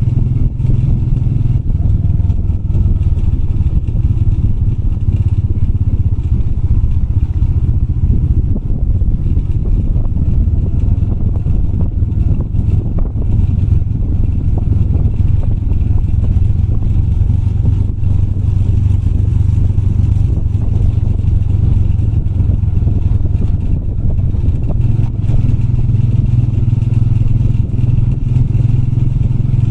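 Motorbike engine running at a steady, low pitch as the bike is ridden, with light clatter mixed in.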